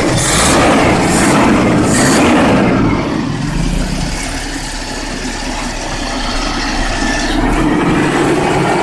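Toyota Kijang LGX engine running, louder in the first few seconds, easing down from about three seconds in, then picking up again near the end.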